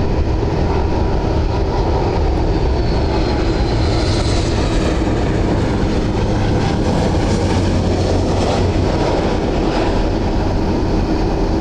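Jet airliner engines on landing approach: a loud, steady rumble with a faint whine that rises in pitch a few seconds in.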